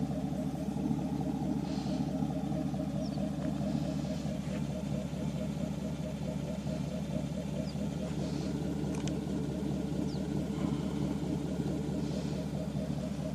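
A 2014 Chevy Silverado's 5.3-litre L83 V8 idling steadily through a 3-inch single straight-pipe center exhaust with no muffler or resonator.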